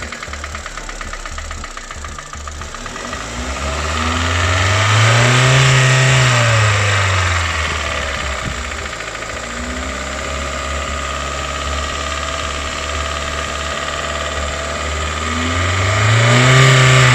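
Chevrolet Spark / Ravon R2's 1.2-litre B12D2 four-cylinder engine running with a foreign knocking noise, revved up and back down twice, the second time near the end. The mechanic traces the knock to the bottom end, around the piston, piston pin and connecting-rod bushing, not the hydraulic lifters.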